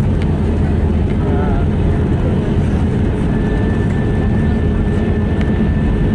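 Cabin noise of an Airbus A321neo during the landing roll: a steady, dense rumble of engines, airflow and runway. A faint thin whine joins it about three seconds in.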